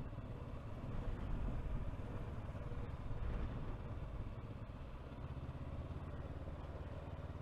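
Honda CB500X parallel-twin engine running as the motorcycle is ridden, under a rough low rumble of wind and road noise; the engine note steadies about five seconds in.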